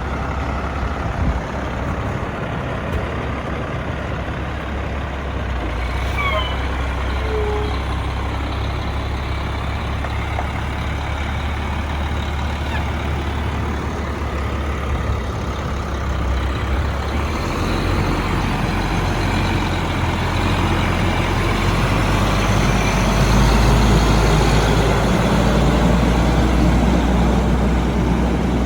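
Heavy diesel engine of a Volvo Xpeditor rear-loader garbage truck running steadily. Its engine note shifts lower about two-thirds of the way through and gets louder near the end. A few brief squeaks come about six to seven seconds in.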